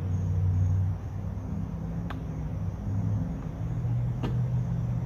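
A low steady rumble, with two short light clicks of small metal carburetor parts being fitted back onto a push mower, about two seconds in and again near the end.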